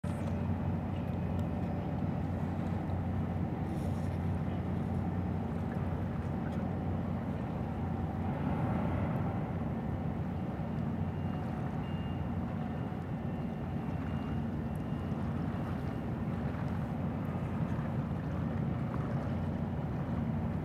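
Steady low drone of a large ship's engines with an even hum, running unchanged. A faint thin high tone comes in briefly about halfway through.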